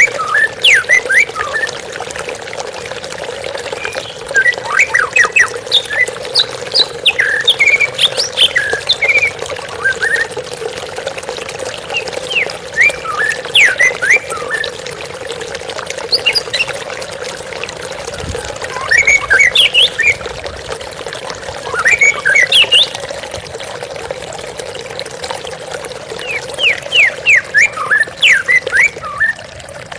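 White-rumped shama singing short phrases of quick whistles and chirps every few seconds, over a steady sound of flowing water.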